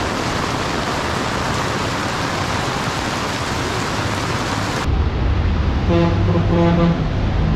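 Heavy rain pouring down on a street, a dense, even hiss. About five seconds in the sound changes abruptly to a low traffic rumble under the rain, with a short, steady pitched tone heard twice.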